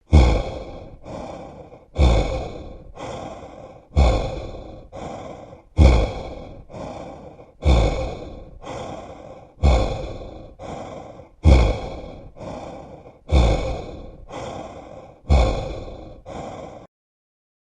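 A person breathing heavily in a horror sound effect: nine slow in-and-out breaths about two seconds apart, each starting abruptly and loud, then a weaker second breath.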